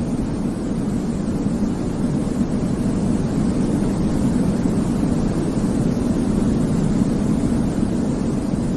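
Continuous white noise for infant sleep: a steady, unchanging hush weighted toward the low end, so it sounds like a deep rumble rather than a bright hiss.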